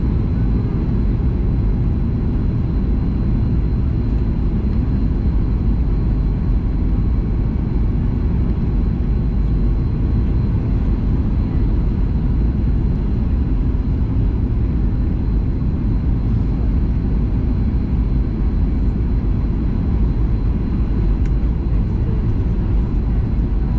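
Steady cabin roar of a Boeing 737 MAX 8 in flight: the CFM LEAP-1B jet engines and rushing airflow heard from inside the cabin, a deep even rumble that does not change, with a faint high steady whine over it.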